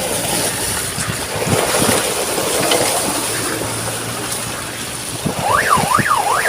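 Steady rushing noise of traffic in drizzle. About a second before the end, an electronic siren starts, its pitch sweeping up and down about twice a second.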